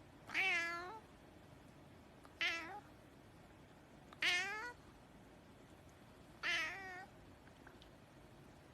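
A domestic cat meowing four times, each meow a short pitched call of about half a second, spaced roughly two seconds apart.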